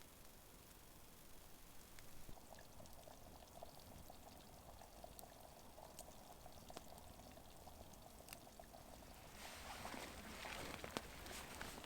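Liquid being poured, faint, starting about two seconds in and growing louder and brighter near the end.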